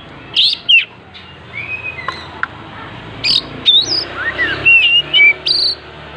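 Oriental magpie-robin (kacer) singing: a string of loud, varied whistled notes and pitch glides in short separate phrases.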